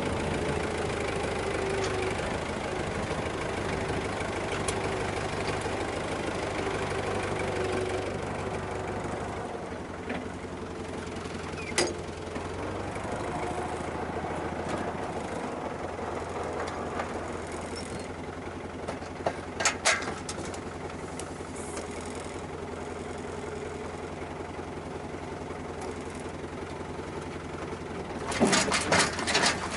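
Farm tractor engine running steadily, with a few sharp clanks near the end.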